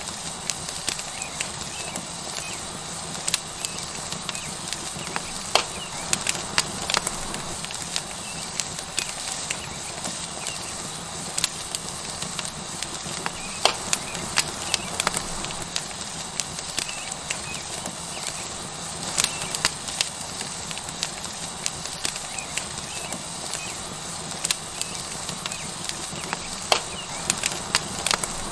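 Tomahawk steak sizzling on a hot rock over a wood fire: a steady hiss with frequent sharp crackles and pops from the burning wood.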